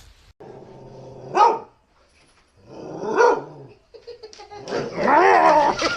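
A dog barking and vocalising: two short barks, then a longer wavering call near the end.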